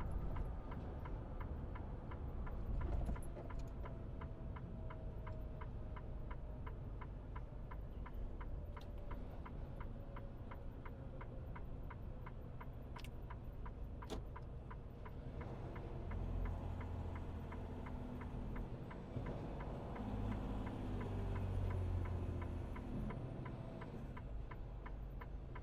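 Truck's turn-signal indicator ticking steadily and evenly in the cab, over a low rumble.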